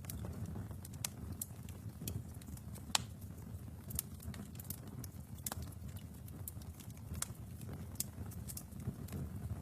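Wood fire burning in a fireplace: a steady low rumble of flames with irregular crackles and pops, the sharpest one about three seconds in.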